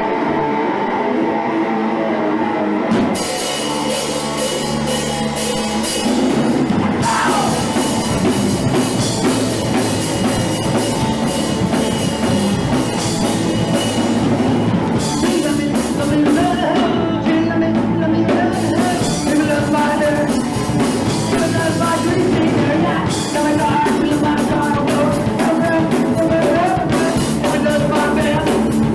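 A live punk rock band playing: electric guitar, bass and drum kit with singing. The band comes in fully with crashing cymbals about three seconds in.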